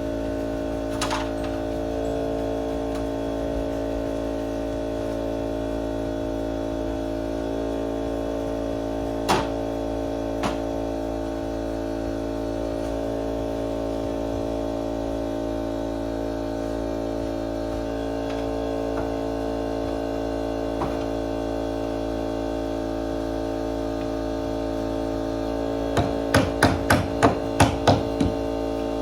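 Steady droning hum with a few scattered knocks, then a quick run of about eight hammer blows, roughly three a second, near the end, as nails are worked out of a rotted microlam beam.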